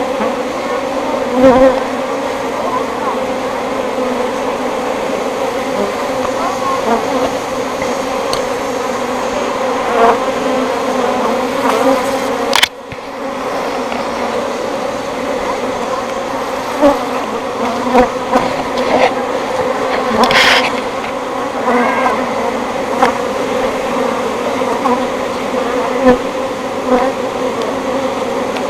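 A swarm of honey bees buzzing steadily and loudly, still agitated and not yet calmed after being shaken from their cluster. A single sharp click about halfway through.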